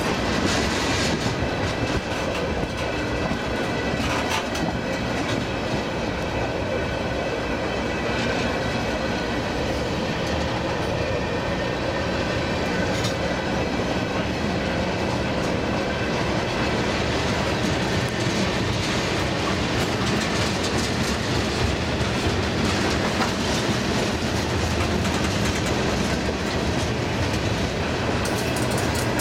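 CN freight train moving on the tracks, running steadily at an even loudness, with faint high-pitched tones in the first few seconds.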